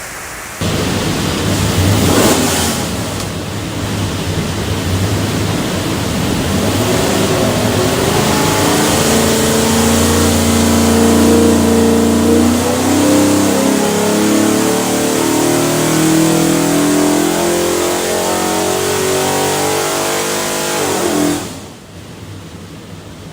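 Carbureted 302 cubic-inch small-block Ford V8 running on an engine dyno: it fires up sharply, gives a quick rev about two seconds in, then makes a long full-throttle pull with the pitch climbing steadily. Near the end the throttle shuts and the sound drops off sharply. It is a healthy run making about 371 hp and 350 lb-ft.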